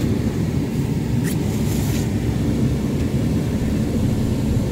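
Steady low rumble of a pickup truck's engine and road noise heard from inside the cab while driving.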